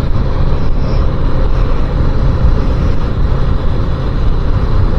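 Motorcycle under way: steady wind rush buffeting the microphone, heaviest in the low end, with the engine's drone underneath.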